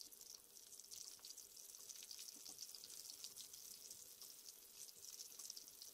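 Batter-coated chicken strips deep-frying in a pan of hot oil: a faint, steady sizzle with fine crackling from the popping bubbles.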